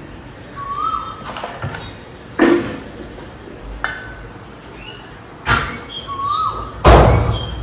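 Birds calling repeatedly with short whistled notes, some hooking up and falling back, others higher and falling, and a few sharp knocks or clatters, the loudest near the end.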